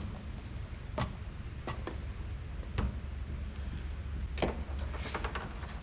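Plastic quart oil bottle being handled while oil pours into an aircraft engine's filler tube: a few scattered light clicks and taps over a steady low hum.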